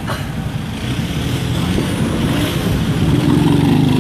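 Road vehicle engine running in slow traffic, swelling louder near the end, with a brief click at the very start.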